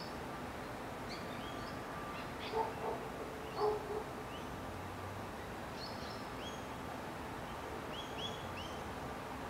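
Birds chirping in the background: short, high chirps scattered throughout over a steady outdoor hiss, with a few louder, lower sounds about two and a half to four seconds in.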